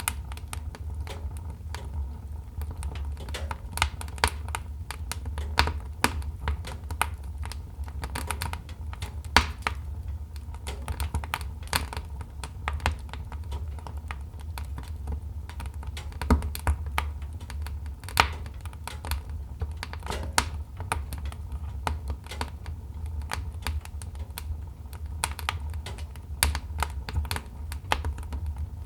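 Wood fire crackling: irregular sharp snaps and pops, some louder than others, over a steady low rumble.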